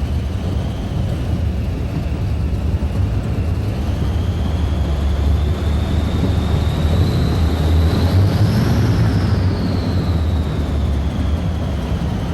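Modified pulling tractor's fuel-injected Allison V12 aircraft engines running steadily, with a deep rumble under a high turbocharger whine that rises about eight seconds in and then falls back.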